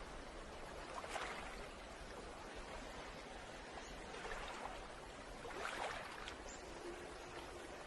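Faint sea waves washing ashore, a steady wash with two soft surges, one about a second in and one near six seconds.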